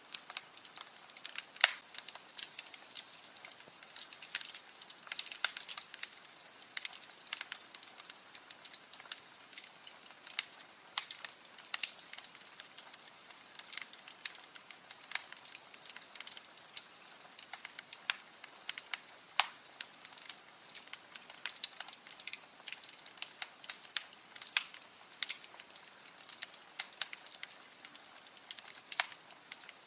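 Wood fire burning in a fireplace, crackling with frequent irregular pops and snaps over a soft hiss.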